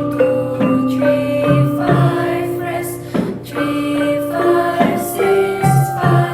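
Malay gamelan ensemble playing: bronze metallophones struck on a steady beat, each note ringing on, with low gong tones beneath and voices singing the melody's note numbers.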